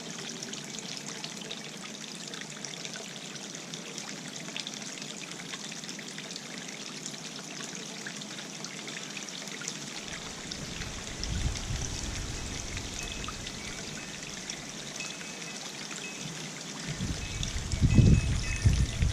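Birdbath fountain water trickling and splashing steadily. Gusts of wind rumble on the microphone about ten seconds in and more strongly near the end.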